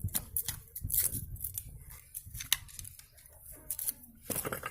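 Scattered light clicks, scrapes and rustles of hands handling the dismantled fan's metal stator and copper windings, busier near the end.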